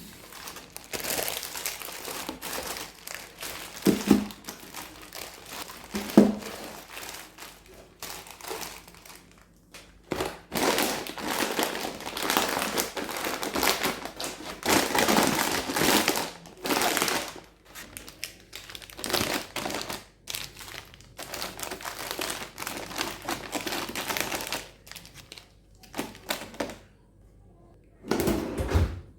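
Packaging crinkling and rustling as it is handled, in long spells with short pauses, with a few knocks about four and six seconds in and again near the end.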